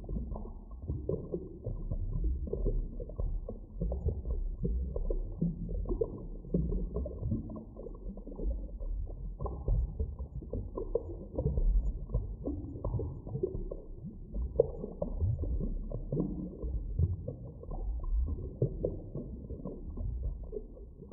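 Muffled underwater ambience: a deep, uneven rumble of moving water that swells and fades, with no clear high sounds.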